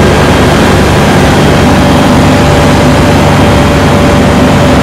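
Comco Ikarus C42 ultralight aircraft's engine and propeller running steadily, a loud even drone.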